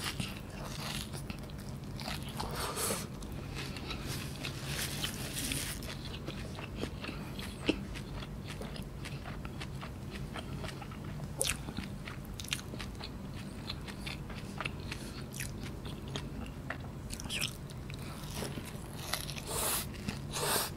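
Close-up chewing and crunching of crispy cheese kunafa, shredded kataifi pastry with melted mozzarella, eaten by hand. Crackly crunches come thick and fast for the first several seconds, then more sparsely, with another run near the end, over a faint steady low hum.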